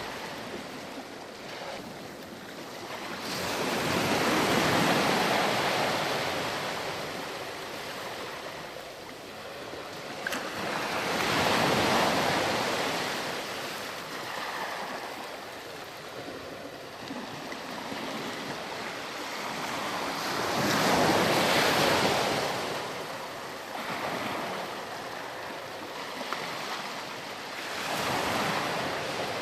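Ocean waves breaking and washing up a sandy beach. The surf swells four times, several seconds apart, with a steady hiss of water between the surges.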